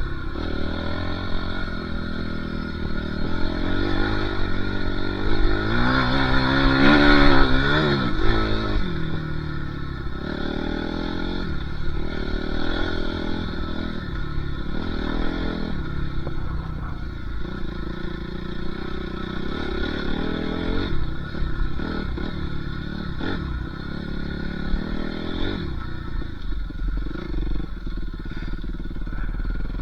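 Dirt bike engines revving up and down as the bikes ride. About seven seconds in comes the loudest stretch, an engine note climbing and then dropping.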